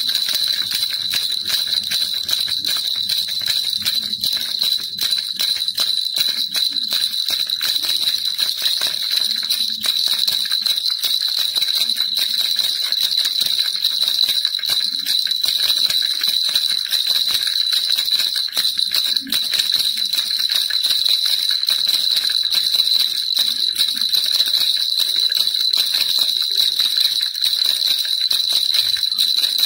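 Baby rattle shaken without a break: a dense, steady jingling with a high, bell-like ring.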